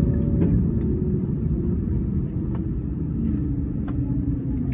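Airbus A321neo cabin rumble after landing, with a faint hum that slowly drops in pitch as the airliner rolls toward the gate, and a few light ticks.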